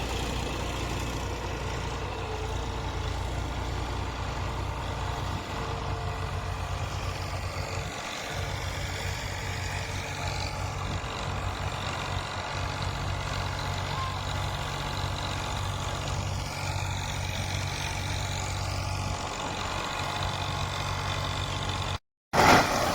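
Eicher tractor's diesel engine running steadily with a rotavator working behind it. The sound cuts out briefly near the end.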